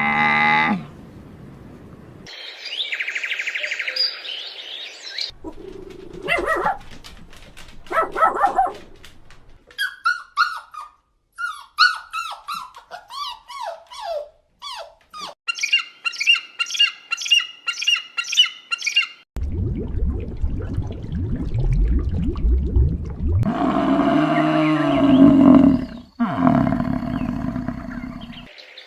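A run of short animal sound clips cut one after another, with dog barking and bird chirping among them.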